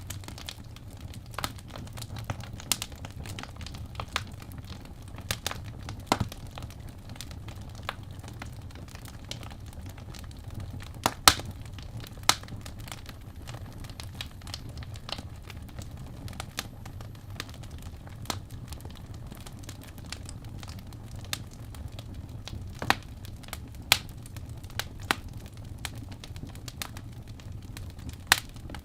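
Fireplace crackling: irregular snaps and pops over a low steady rumble, with a sharper pop about eleven seconds in.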